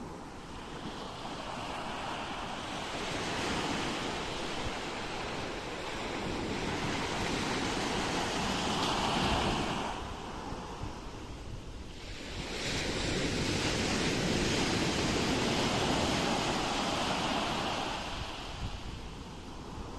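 Ocean waves washing onto a shore, two surges swelling and easing, one peaking about nine seconds in and the other running from about halfway through to near the end. Wind rumbles on the microphone underneath.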